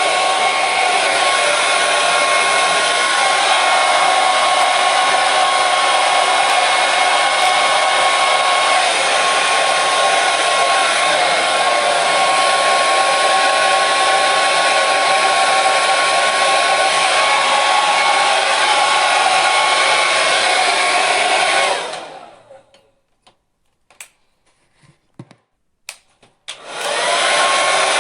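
Hair dryer running with a steady airy whir and a thin whine. It cuts off abruptly about three-quarters of the way through, leaving a few seconds of near silence with a few faint clicks, then starts again near the end.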